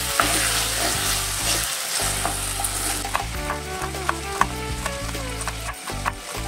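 Onions and tomatoes sizzling in hot oil as they are stirred in a pot, loudest in the first few seconds, over background music.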